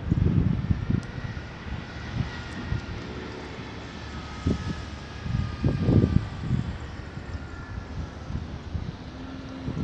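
Distant engine drone with a faint whine that slowly falls in pitch, under gusts of wind buffeting the microphone.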